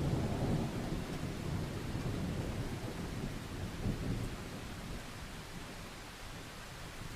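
Steady rain with a low rolling rumble of thunder, loudest in the first second or so and fading away over the next few seconds.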